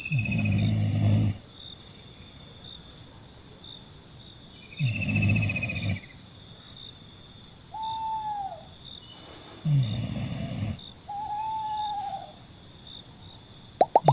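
Three deep, hooting animal-like calls about five seconds apart, each falling in pitch, over a steady high hum, with two shorter arching whistled calls between them.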